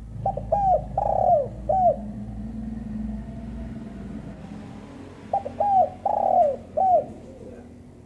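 Spotted dove cooing: two phrases of about four short coos each, the third coo the longest, about four and a half seconds apart. A low hum sits underneath for the first half.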